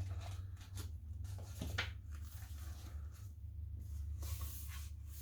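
A hardcover picture book being opened and its pages turned: a few short paper rustles and soft taps over a low steady hum.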